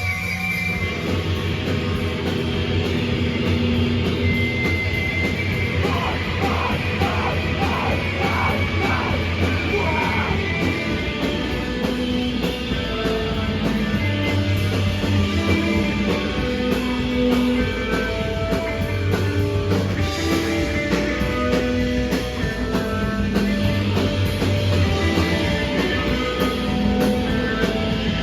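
Rock band playing loud live, with guitars, bass and drums, and a sung or yelled vocal line about six to ten seconds in.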